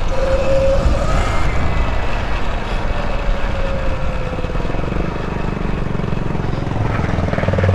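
A vehicle on the move: steady wind rumble with a motor whine that slowly drops in pitch. Near the end, the rapid even firing of a small engine comes in.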